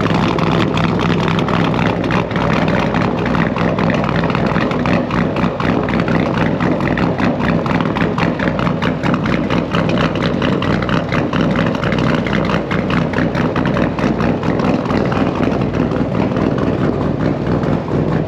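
Chevrolet Camaro's engine idling steadily, with a fast, even exhaust pulse.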